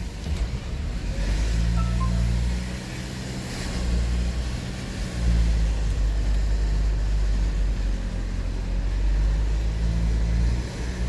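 Car engine and road noise heard from inside the cabin while driving: a continuous low drone that swells and eases.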